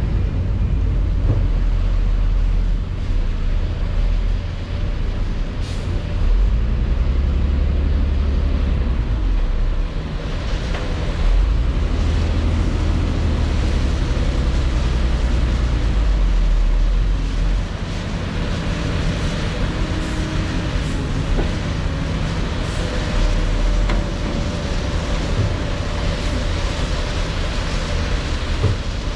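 Heavy diesel construction machinery running at a rock-clearing site: a loud, deep engine rumble that swells and eases several times, with a faint steady whine above it.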